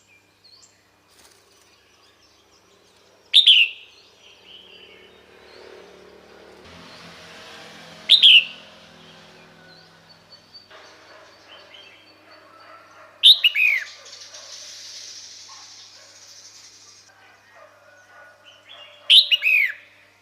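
Female red-whiskered bulbul calling: four short, sharp calls about five seconds apart, each falling quickly in pitch. This is the female's call used to draw a male in.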